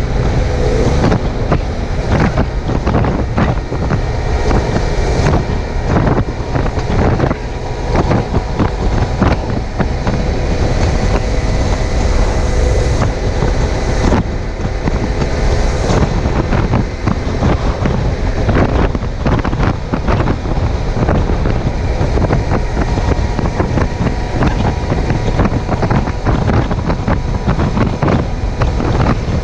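Heavy wind buffeting on the microphone of a chest-mounted camera at riding speed, over the steady running of a Suzuki GSX750F's inline-four engine.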